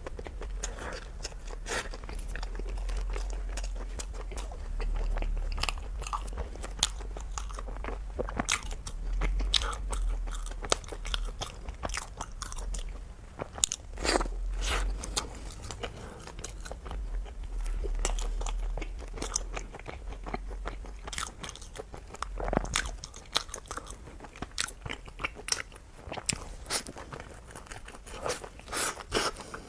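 Close-miked eating of Chinese food: biting and chewing with many sharp crunches and mouth clicks, irregular and continuous. A low rumble sits underneath and stops about two-thirds of the way through.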